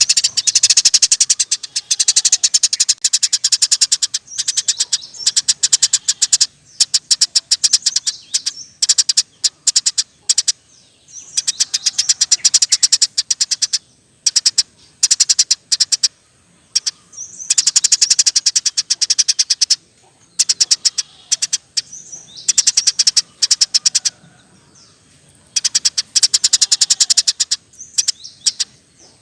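Eurasian tree sparrow chattering in fast rolling runs of sharp chirps, many a second, in bursts of a few seconds with short pauses between.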